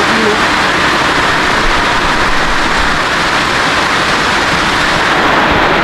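Heavy rain falling, a loud, steady hiss that holds even throughout.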